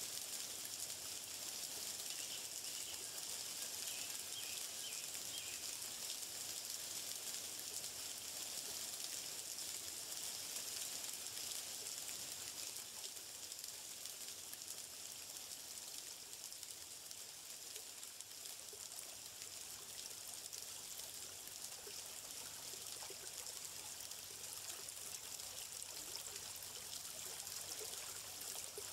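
Stream water flowing and trickling steadily, with an even, hissing rush.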